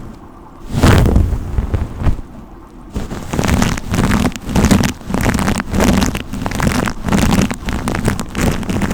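Brush strokes rubbing right against the microphone, loud and rumbly. One long sweep comes about a second in, then quicker repeated strokes, about two a second, from about three seconds in.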